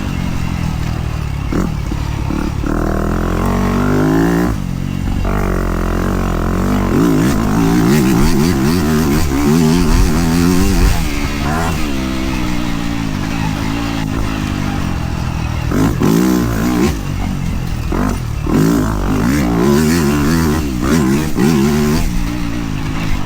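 Dirt bike engine under load on a trail, revving up and dropping back again and again as the throttle is worked and gears change, with sharp drops about four seconds in and twice more near the end. Wind and trail noise run underneath.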